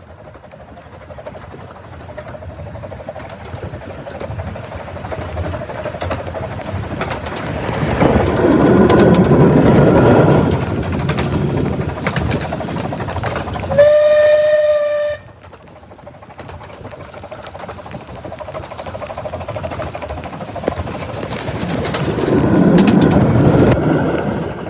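Miniature-railway train running along the track, its noise swelling to loud passes about a third of the way in and again near the end. About halfway through, the locomotive's whistle sounds once for about a second and a half, with one clear pitch, and cuts off sharply.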